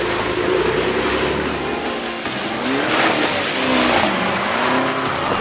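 Lamborghini Urus's twin-turbo V8 revving on an off-road track, its pitch rising and falling a couple of times.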